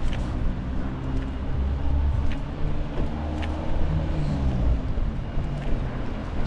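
A motor vehicle engine running close by on a street: a steady low rumble with a faint hum, and a few light ticks over it.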